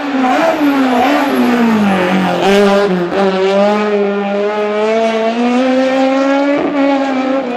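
Fiat 127 slalom car's engine held at high revs while driven hard through the cones. The pitch drops over the first two seconds, then holds steady with a couple of brief dips and creeps back up near the end.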